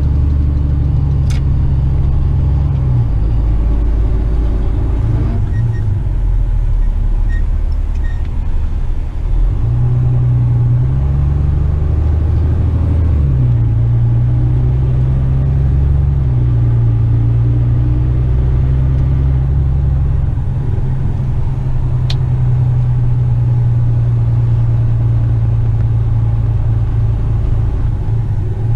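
Diesel engine of a Western Star tipper truck heard from inside the cab while driving slowly: a steady low drone whose pitch steps up and down several times, with a couple of faint clicks.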